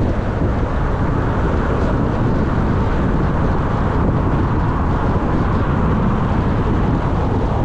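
Vehicle driving at speed: steady road and wind noise.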